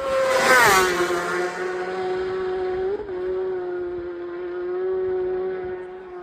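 A racing superbike passes close at full speed. Its engine note drops sharply in pitch as it goes by about half a second in, then holds a steady high note as it carries on, with a brief wobble in pitch about three seconds in. It fades near the end.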